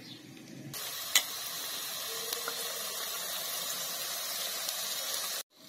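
Chicken pieces with ginger-garlic paste and ground onion sizzling in hot ghee in a karahi: a steady frying hiss that starts suddenly just under a second in and cuts off abruptly near the end. One sharp click comes about a second in.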